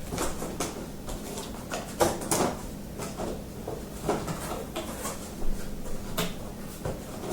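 Cardboard packaging being handled while a boxed espresso machine is unpacked: irregular rustles, scrapes and light knocks, a few a second.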